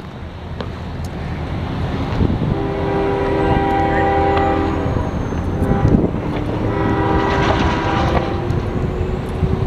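Railroad locomotive horn sounding a chord in two long blasts, the first about three seconds long, over a steady rumble.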